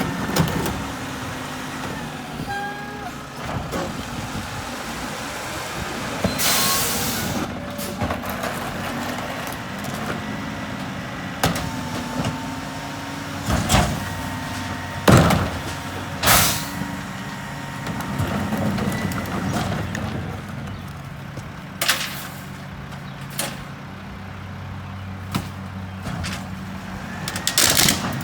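Mack MRU garbage truck with a McNeilus rear-loader body running steadily. A hiss of air comes about six seconds in, a faint whine runs through the middle, and several sharp bangs are spread through.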